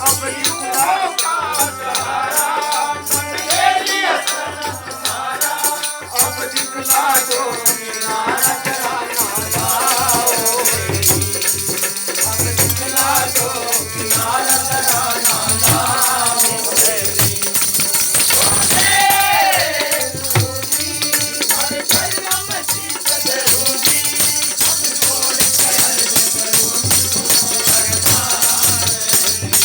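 Hindi devotional hymn (bhajan) performed live: singing over fast, rattling hand percussion and a steady drum beat.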